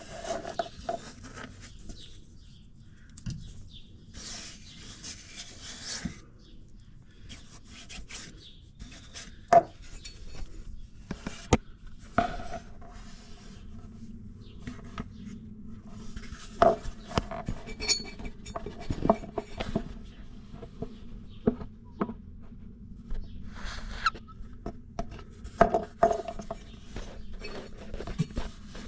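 Metal tools clinking, knocking and scraping against metal jet-pump parts. Scattered sharp knocks, some ringing briefly, with a stretch of rasping scraping a few seconds in.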